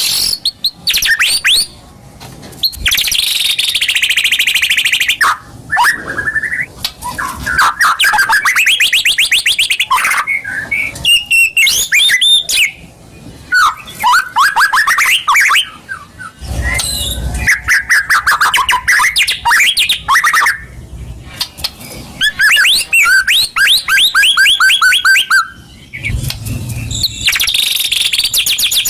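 White-rumped shama (murai batu) song, the kind used as a pancingan to provoke a caged bird into singing. It comes as loud phrases of rapid trills, fast whistled glides and ticking runs, each a second or two long with short pauses between. Two brief low rumbles come in under the song, about halfway through and near the end.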